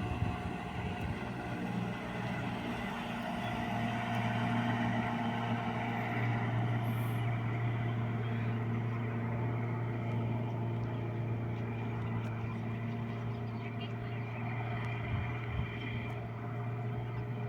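Motorboat engine running steadily at a constant speed, a continuous low hum.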